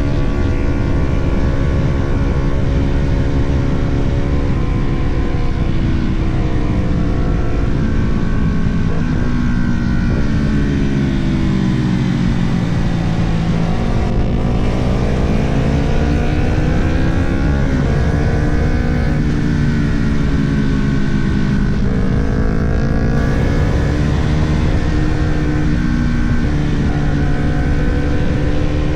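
Sport motorcycle engine under hard riding. The revs fall steadily for several seconds toward the middle, then climb and drop again through the gears, over a steady rush of wind.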